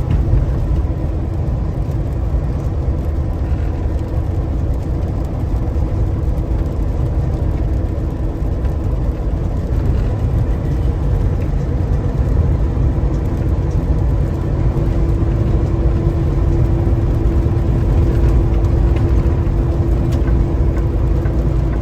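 Semi truck cruising at highway speed, heard from inside the cab: a steady low engine drone and road noise, with a faint steady hum that grows a little stronger about two-thirds of the way through.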